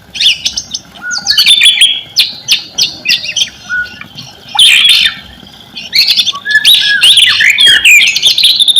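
White-rumped shama (murai batu) singing: loud bursts of varied whistles and sharp chattering notes, broken by short pauses, ending in a fast run of repeated notes.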